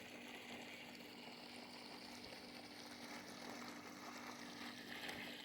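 Faint steady hum of a pool filter pump running, with a low, even wash of moving water.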